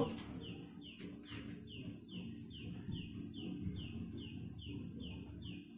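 A bird chirping steadily, about three short falling chirps a second, high-pitched, over a faint low background noise.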